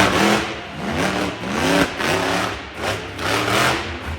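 Monster truck engine revved in repeated short blips, its pitch rising and dropping back about five times.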